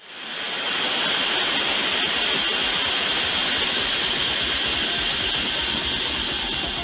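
A steady rushing hiss that fades in within the first half second, with a low rumble beneath it.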